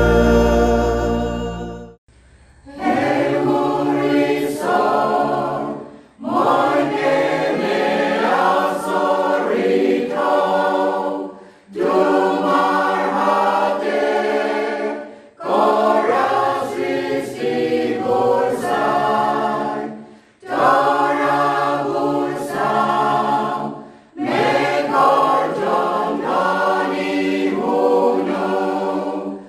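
A choir singing unaccompanied, in phrases of three to four seconds, each followed by a brief pause. A held chord fades out over the first two seconds.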